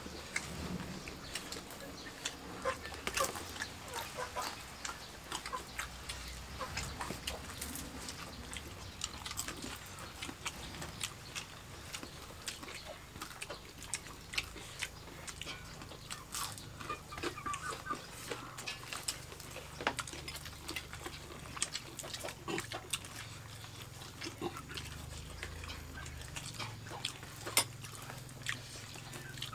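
Several people eating rice with their hands, chewing and smacking their lips: a steady, irregular run of short wet clicks and smacks.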